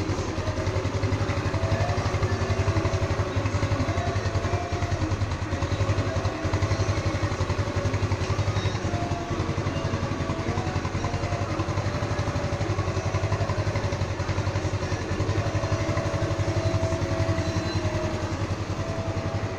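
Motorstar Easyride 150 R2 motorcycle's single-cylinder engine idling steadily.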